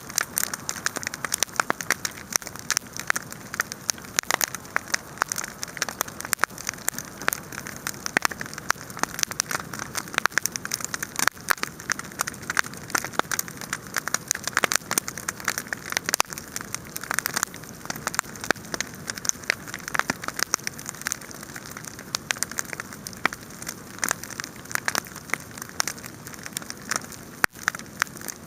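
Wood fire crackling and popping, a dense steady stream of small snaps with no pause.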